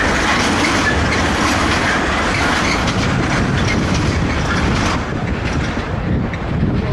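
Intermodal container freight train rolling past, its wagon wheels clattering over the rail joints; about five seconds in the noise drops as the train draws away.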